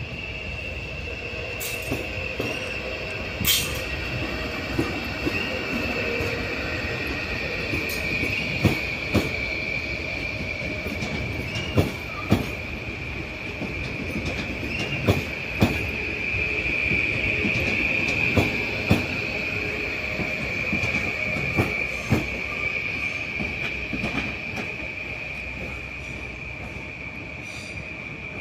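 A train rolling slowly past, its wheels squealing steadily at a high pitch, louder toward the middle and fading near the end. Sharp knocks come in pairs about half a second apart, every three seconds or so, as the wheels pass over rail joints.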